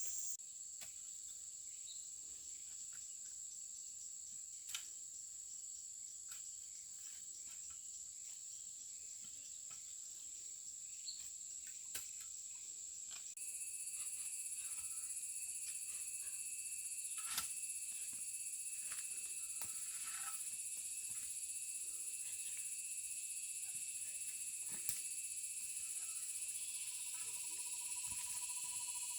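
A steady, high-pitched insect chorus with a few faint clicks. About halfway through, the chorus changes and grows louder, with several high tones layered together.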